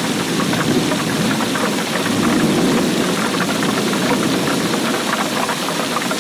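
Steady heavy rainfall: dense pattering of drops over a deep, even rush of water noise.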